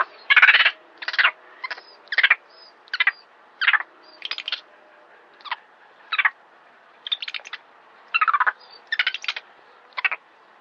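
A bird calling over and over in short, harsh bursts, roughly one or two a second, at an uneven pace.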